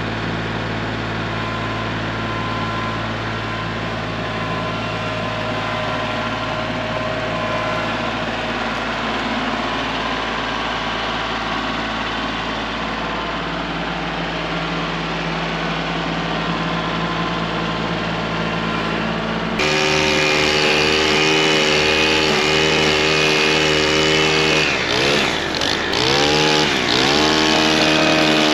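Kubota L3901 tractor's three-cylinder diesel engine running steadily. About twenty seconds in, the sound changes abruptly to a louder, higher engine note, and near the end its pitch dips and recovers several times.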